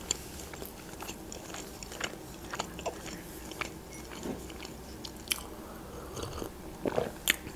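Quiet chewing with the mouth closed: soft, scattered wet mouth clicks. Near the end, a sip from a mug.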